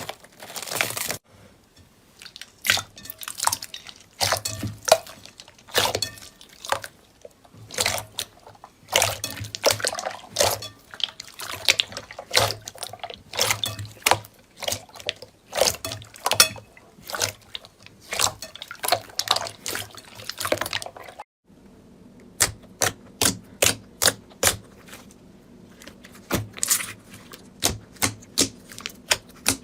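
Slime being squeezed and poked by hand, giving irregular wet clicks, pops and squelches. After a sudden break about two-thirds of the way in, a crisper run of clicks follows at roughly two a second.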